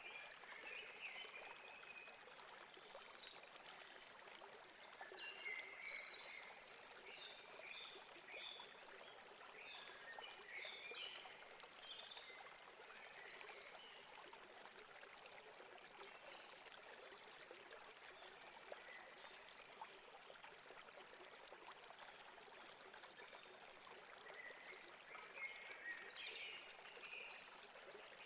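Faint steady rush of a stream's running water, with small birds chirping in scattered runs of short calls, busiest from about five to thirteen seconds in and again near the end.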